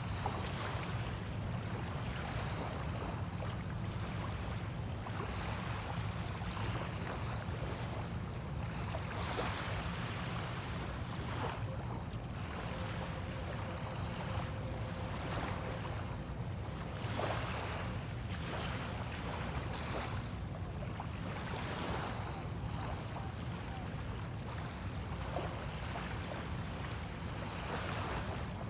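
Small bay waves washing and lapping at the shore in repeated soft swells every second or two, over a steady low rumble of wind on the microphone.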